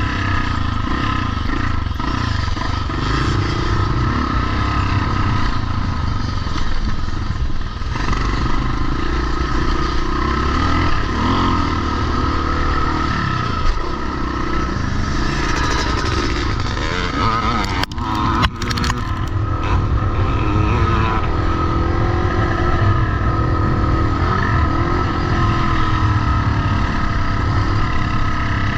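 Vintage motocross motorcycles running continuously, engine pitch rising and falling as the riders rev and ease off, with a couple of sharp knocks a little past halfway.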